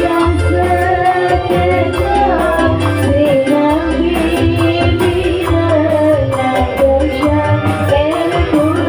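A song with a sung melody played loud through a big sound system, over heavy bass that pulses on and off.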